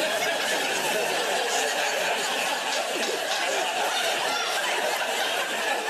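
Studio audience laughing at a joke, a dense steady wash of many voices that holds at the same level throughout.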